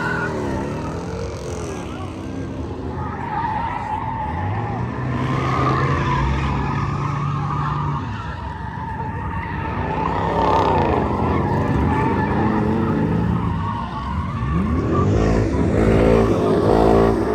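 Car engine revving hard and repeatedly while its tires screech as they spin. The revs climb and drop several times and are held steady for a few seconds in the middle.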